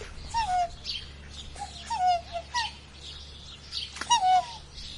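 Birds calling: a series of short calls that each drop in pitch, about five of them, with higher chirps in between; the loudest comes about four seconds in.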